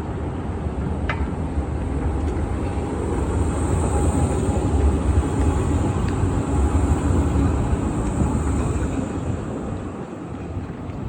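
Tram running on its rails, a steady low rumble that eases off near the end.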